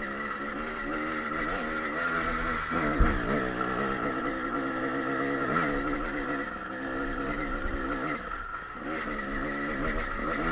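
Dirt bike engine running on a trail ride, its revs rising and falling, with a sharp knock about three seconds in.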